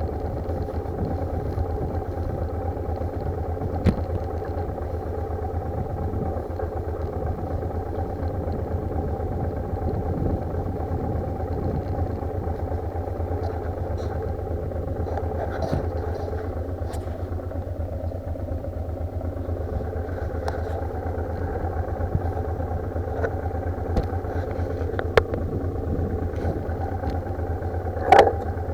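Motorcycle engine running, heard through heavy wind noise buffeting the bike-mounted camera's microphone as a steady low rumble. A couple of loud knocks come near the end.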